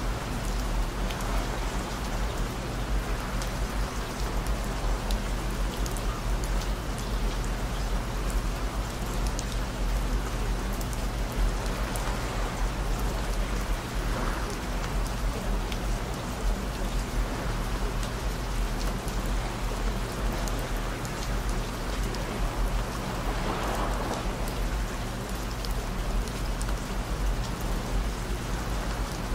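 Steady rain with scattered sharp drop ticks, over steady low droning tones.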